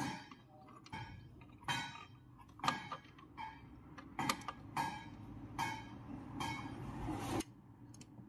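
Screws being tightened to fix a refrigerator compressor to its mount: a run of short metallic scraping clicks, a little under one a second, the last one drawn out for about a second.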